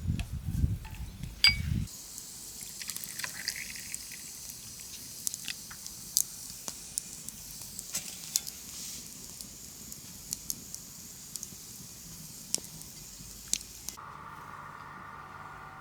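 Meat rolls frying in hot oil over a wood fire: a steady high sizzle dotted with sharp pops of spitting fat. It follows a couple of seconds of low rumbling and knocking, and near the end it gives way abruptly to a fainter steady hum.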